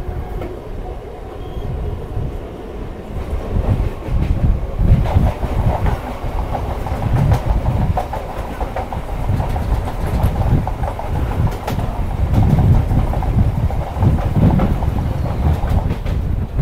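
Electric local train (EMU) running at speed: steel wheels clattering over rail joints with a constant low rumble, while trains on the adjacent track pass close alongside.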